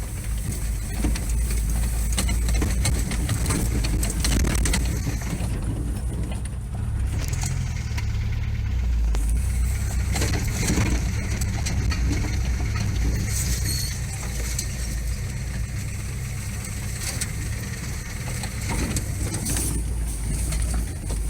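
Vehicle driving, a steady low engine and road rumble with scattered knocks and rattles.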